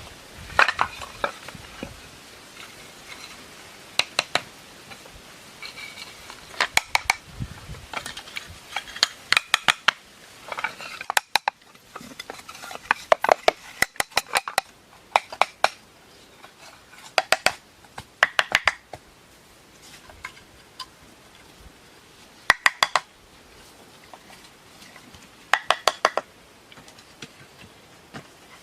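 Sharp clicking knocks of hard objects striking each other, in quick clusters of two to five that come every second or two.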